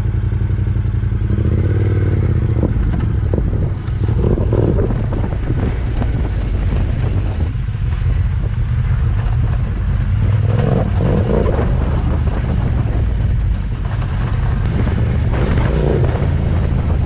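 Motorcycle engine running steadily, its pitch rising and falling now and then.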